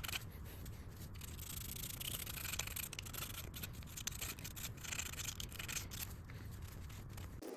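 Hand scraping and sanding of an engine's aluminium mating surface where the VTEC solenoid meets the block, cleaning off old gasket material: a rough, steady rubbing broken by many short scratchy strokes, which stops abruptly near the end.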